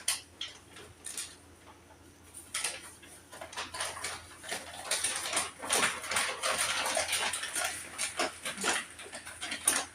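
Medicine bottles and other small containers clicking and rattling as they are handled and put away, a busy run of light knocks starting about two and a half seconds in.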